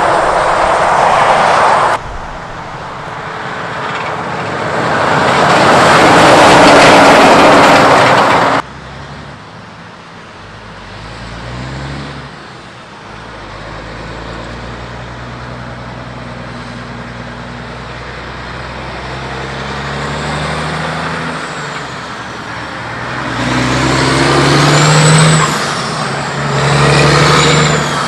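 Mack heavy trucks driving past on the road, in several short cuts. Twice the tyre and engine noise swells as a truck passes close. Then a diesel engine note is heard shifting pitch in steps, and near the end it gets louder, with a high whine rising and falling.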